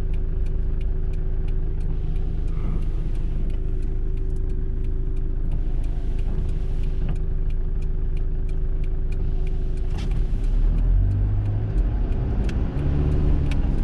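Mitsubishi Delica L400 turbo diesel van on the move, a steady engine and road drone. About ten seconds in it gets louder and the engine note rises as the van accelerates.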